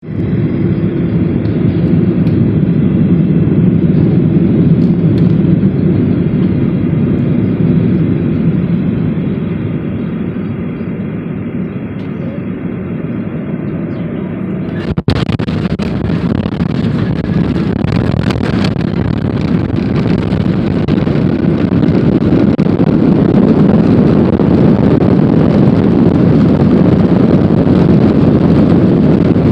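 Jet airliner cabin noise during landing: a steady rumble of engines and rushing air. About halfway through the sound changes abruptly and turns brighter and harsher, then grows louder toward the end.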